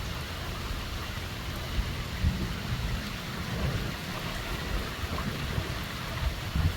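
Strong storm wind blowing, a steady rushing hiss with gusts buffeting the microphone in low, uneven rumbles.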